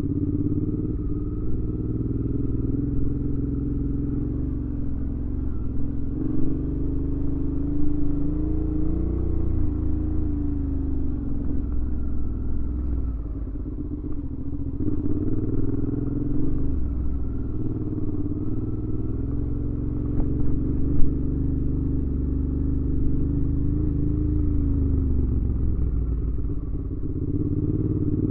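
Suzuki V-Strom 650's 645 cc V-twin engine running through a Delkevic aftermarket exhaust while riding. Its pitch rises and falls several times as the throttle opens and closes, with one brief sharp knock about three-quarters of the way through.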